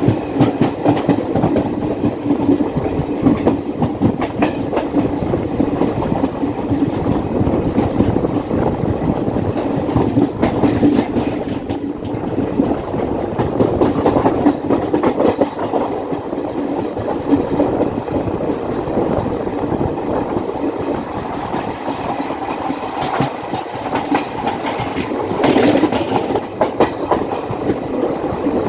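Train running on the rails, its wheels clattering steadily over the rail joints, with a continuous rumble.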